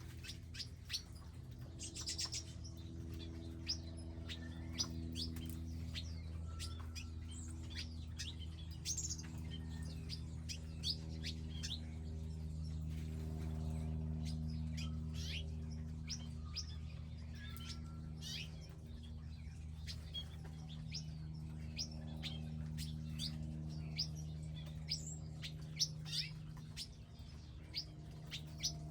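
Small wild birds chirping and calling in many short notes, scattered throughout, over a low steady hum that swells slightly around the middle.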